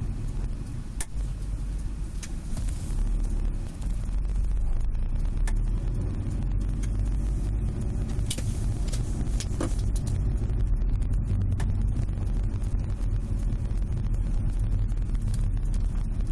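Sharp snapping clicks ("paki-paki") from the rear hatch and luggage area of a Subaru Legacy BH5 wagon, coming irregularly every second or few, over the steady low rumble of the car on the road. The cause of the clicking is unknown; it persists with the hatch and cargo-area trim removed.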